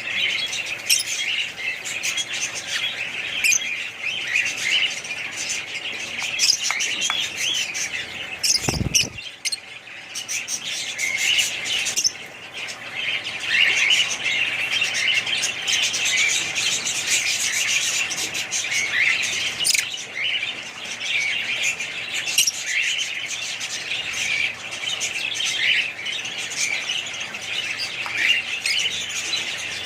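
A flock of small birds chirping and chattering without a break, many calls overlapping, with a brief low thud about nine seconds in.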